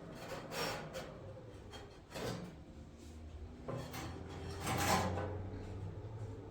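A handful of scrapes and knocks, about five in all, spread over a few seconds, the loudest about five seconds in, over a steady low hum.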